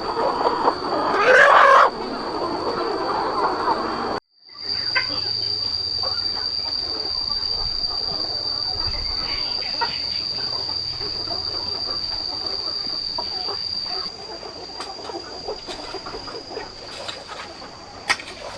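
A flock of chickens clucking and calling, loud and overlapping at first. After a sudden break about four seconds in, quieter scattered clucks continue over a steady high-pitched whine.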